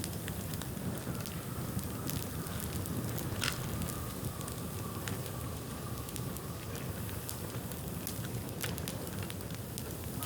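Bonfire of dried bamboo burning: a steady low rush of flames with scattered sharp crackles and pops, one louder pop about three and a half seconds in. A faint thin whistle runs for a few seconds in the middle.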